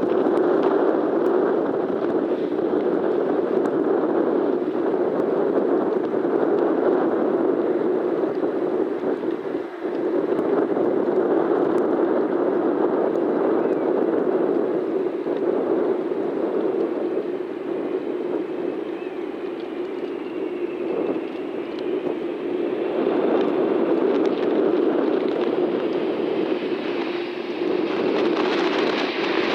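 Steady noise of jet airliner engines mixed with strong wind on the microphone. A faint engine whine rises and falls partway through, and a brighter hiss builds near the end as the aircraft noise grows.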